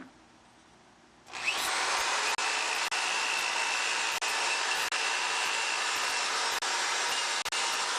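A handheld power tool with an abrasive disc starts about a second in, spins up and runs steadily, stripping rust off the steel bike frame, with a few short dips in the sound.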